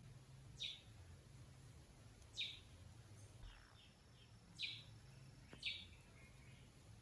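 Four quick, high chirps from a bird, each a short falling note, over a faint low hum of room tone.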